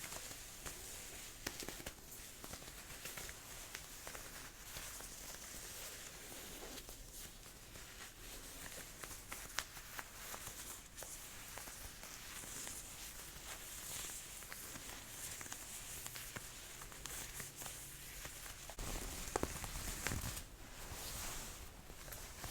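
Jacket fabric rustling and crinkling close to the microphone as a sleeve is handled and rolled up, with small crackles and ticks throughout. It grows louder and fuller near the end.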